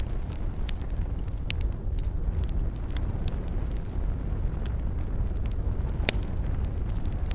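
Wood fire burning in a fireplace: a steady low rumble of flames with scattered crackles and snaps, one louder pop about six seconds in.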